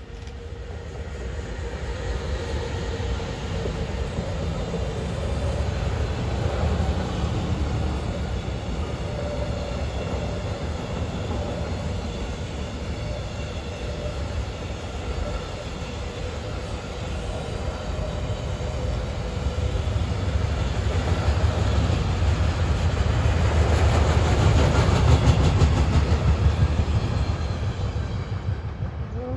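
Freight train of tank-container wagons hauled by an electric locomotive passing: a steady rumble of wheels on rail that swells loudest a few seconds before the end, then cuts off suddenly. A faint steady whine sounds in the first few seconds.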